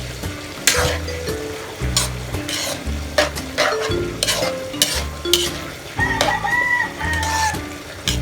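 Food being stirred and sizzling in a pan, with the utensil scraping at regular intervals over background music with a repeating bass line. A rooster crows once, about six seconds in.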